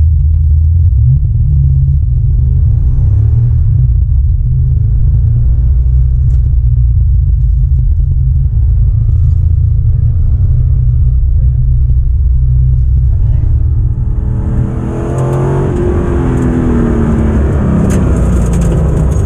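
GT40's engine heard from inside the cockpit during an autocross run: a low rumble with the revs rising and falling between corners. About fourteen seconds in it grows louder and fuller under hard acceleration, with a hiss over it. The GoPro's automatic level control evens the sound out, so at times it sounds close to idling even while the car is sliding.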